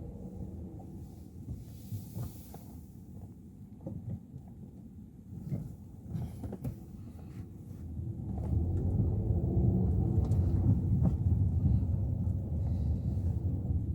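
Low road and engine rumble inside a moving Suzuki Ertiga's cabin, with a few small knocks and rattles. It gets clearly louder about eight seconds in.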